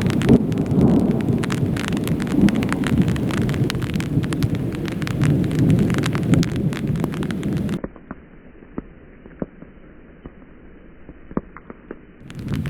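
Heavy thunderstorm downpour, a dense rushing of rain with many sharp individual drop impacts. About eight seconds in the sound suddenly drops to a much quieter, muffled hiss with a few scattered drop clicks, then the loud rain comes back near the end.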